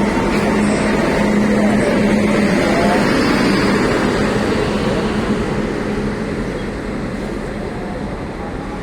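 Train moving at a station platform: a steady rumble of rolling stock with a low hum that is strongest for the first few seconds, the whole slowly getting quieter.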